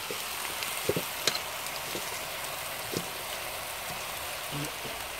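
Stir-fry sizzling in a hot wok as chopped bok choy is tipped in from a steel bowl, with three sharp clicks in the first few seconds.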